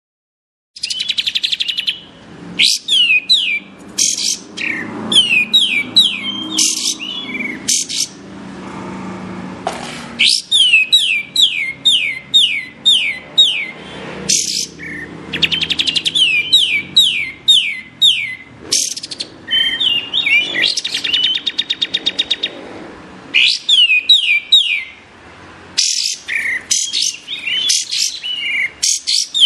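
Kapas tembak bird singing phrases of rapid, high, falling whistled notes with short pauses between them, starting about a second in.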